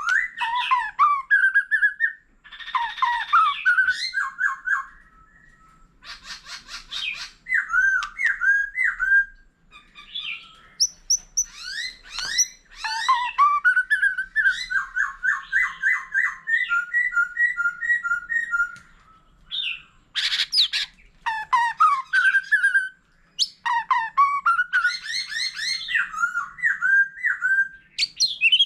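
White-rumped shama singing a long, varied song: sweeping whistled notes, fast runs of repeated notes and rattling trills, with one harsh burst near the end, in phrases separated by short pauses.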